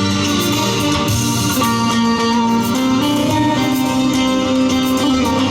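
Instrumental break in a live Turkish folk song (türkü): a band playing the melody between the sung verses, with plucked strings and keyboard.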